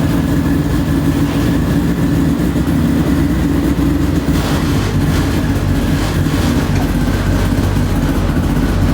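A roughly 1000-horsepower drag car engine running at a steady idle, its low, even engine tone holding without revving.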